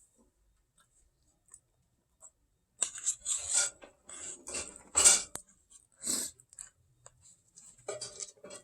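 Cutlery scraping and clinking on a dish in a handful of short strokes, starting about three seconds in, while eating pie and ice cream.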